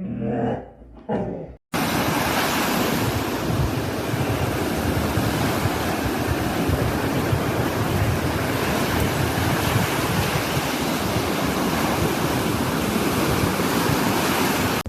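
A brief whine, then, after a sudden cut about a second and a half in, a loud steady rushing noise with irregular low buffeting, like wind on a microphone or surf.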